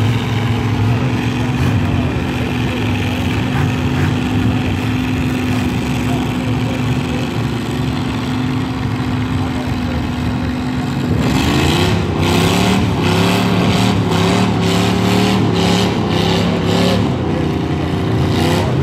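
Ford pickup truck engine running at a steady speed, then revving up about eleven seconds in and surging up and down repeatedly, as when working the truck through mud, before settling back near the end.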